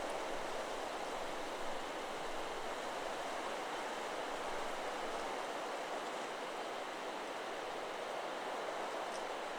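Steady wind rushing through forest trees, with the leaves rustling. No chime tones ring out.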